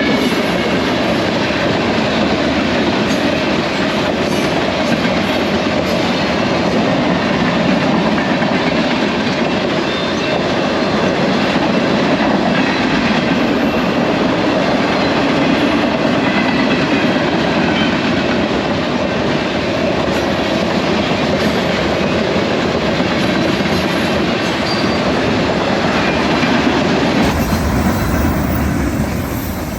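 BNSF freight train cars rolling past at speed, with a loud, steady roar and wheels clattering over the rail joints. Near the end the sound changes abruptly, with more low rumble and less hiss.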